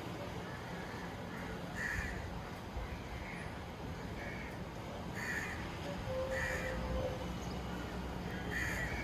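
A bird calling over and over, about seven short calls spaced roughly a second apart, over a steady low background rumble.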